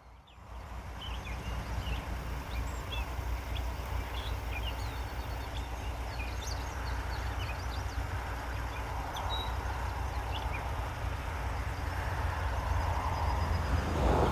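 Birds chirping in short scattered calls over a steady low rumble that swells slightly near the end.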